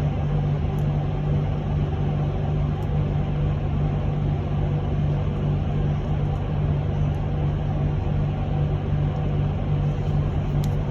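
Cabin noise inside an electric bus: a steady low hum over a constant rumble, with a few fainter steady tones above it.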